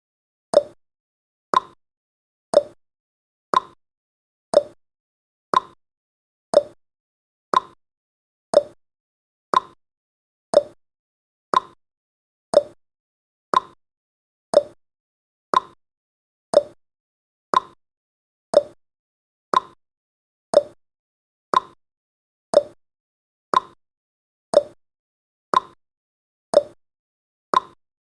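Countdown timer's ticking sound effect: one short, sharp tick every second, marking off the seconds.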